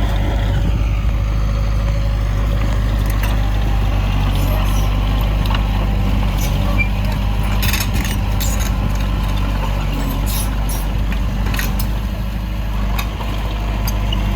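Heavy construction machinery's diesel engine running steadily, with a few sharp metallic clanks in the second half.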